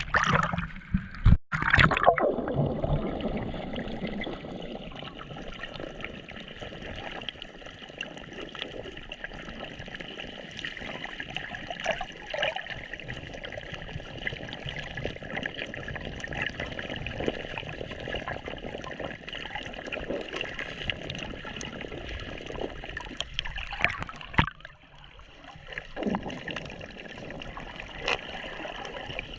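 Seawater gurgling and sloshing in shallow water, with louder splashes in the first two seconds and again about 24 seconds in.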